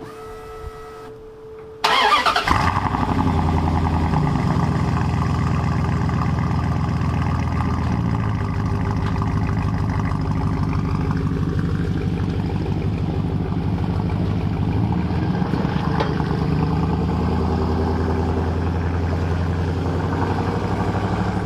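The 1999 Dodge Ram 1500's 5.9-litre V8, with 307,000 miles on it, cold-starts about two seconds in with a brief crank that catches almost at once. It then runs at a steady idle.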